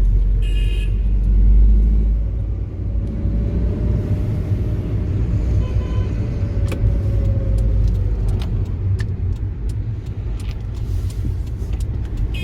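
A moving car's low, steady engine and road rumble heard from inside the cabin, with a faint tone rising and falling in the middle and a few light clicks.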